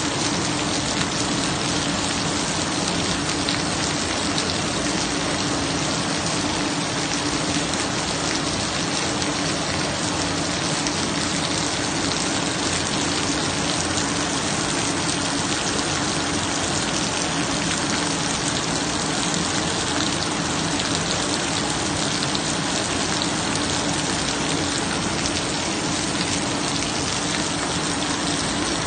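Steady rain falling and hitting surfaces, an even hiss that does not change, with a faint steady low hum underneath.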